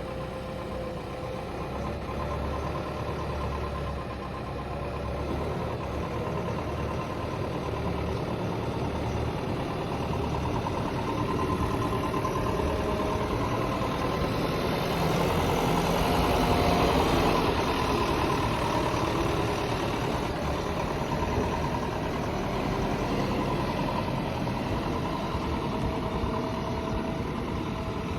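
Heavy diesel engines of a backhoe loader and farm tractors running at a dig site. The sound is continuous and grows louder for a few seconds past the middle before settling again.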